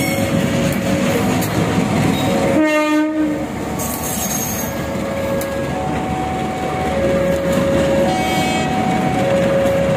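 A CC201 diesel-electric locomotive and its passenger coaches pass close by, with heavy wheel rumble and engine noise. There is a short horn blast about three seconds in. Through it a level-crossing alarm sounds two alternating tones.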